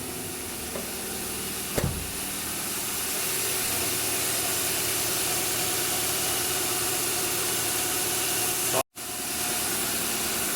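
Ford EcoSport engine idling steadily with no chain rattle, its timing chain tensioner newly replaced. A single short click sounds about two seconds in, and the sound drops out for an instant near the end.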